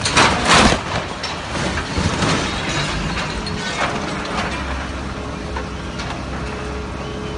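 A sudden loud crash of heavy machinery, with cracking and clattering for a few seconds, then a steady engine hum.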